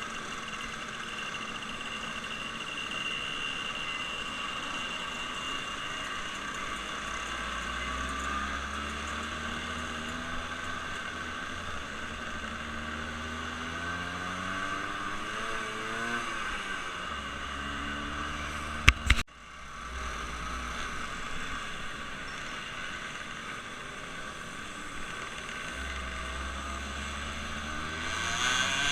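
Motor vehicle engines running, their pitch repeatedly rising and falling as they rev or pass, with a sharp double knock about 19 seconds in.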